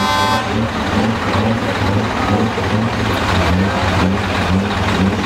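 Truck engines running as a convoy rolls past, a steady low rumble, with a truck horn that cuts off a moment in.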